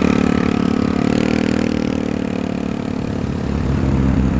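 A small motorcycle's engine pulls away after quick revs, its note holding and then fading over about three seconds. A deeper car engine grows louder near the end.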